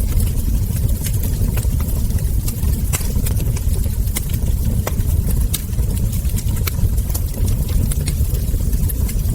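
Wood fire burning with a steady low rumble, and sharp crackles and ember pops scattered irregularly, a few a second.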